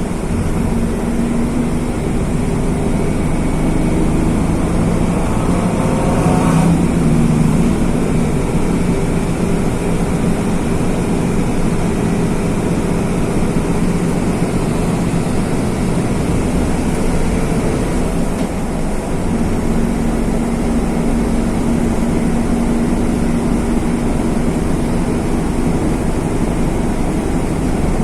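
Mercedes-Benz OF-1519 city bus's OM-924 LA four-cylinder turbodiesel running under way. Its note shifts a few times, with a brief rise about six seconds in and a dip and a new steady pitch shortly after the middle.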